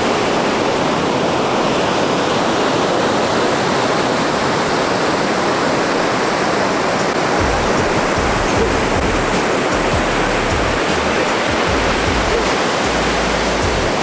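Ocean surf breaking and washing on the beach close to the microphone, a steady loud rush, with low rumbling gusts coming in from about halfway through.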